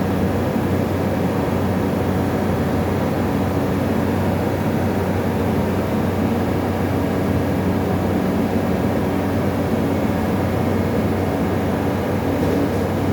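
Refrigerator compressor of 350 watts, powered up and giving a loud, steady mains-frequency hum without a break. The compressor is diagnosed as mechanically jammed.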